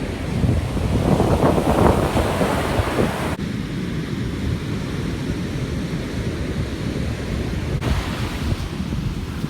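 Ocean surf washing under wind buffeting the microphone, with a louder surge of surf about one to two seconds in.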